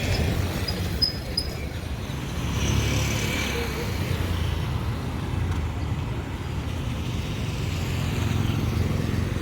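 Street traffic noise: a steady low rumble of motor vehicles, with one passing more loudly about three seconds in.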